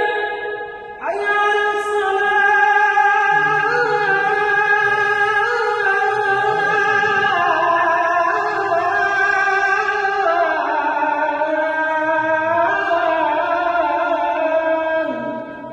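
A single voice chanting in the Islamic melismatic style, holding long notes that slide and ornament between pitches in one long unbroken phrase after a brief break about a second in, then fading near the end.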